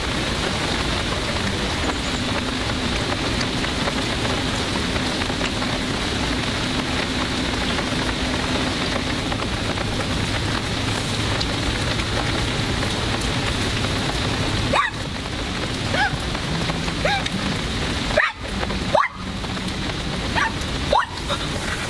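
Steady, dense spattering hiss, rain-like, running without a break; from about two-thirds of the way in, a few short rising chirps sound over it and the sound drops out briefly several times.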